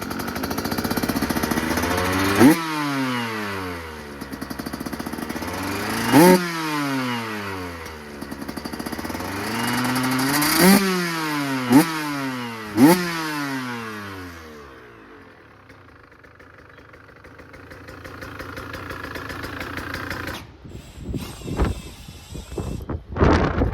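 2024 KTM 125SX two-stroke engine on its stock exhaust, revved in five sharp throttle blips, the pitch shooting up and falling back each time. After about 14 s it settles down to a quieter, lower running, and near the end rough bumps of noise take over.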